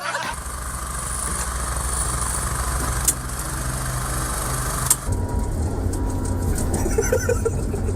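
An engine running steadily with a low rumble. There is a sharp knock about three seconds in, and the engine's sound changes about five seconds in.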